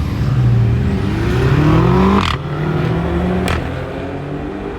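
Car engine accelerating hard, its note climbing for about two seconds, then dropping suddenly at a gear change and pulling on more steadily. A sharp crack sounds at the shift and again about a second later.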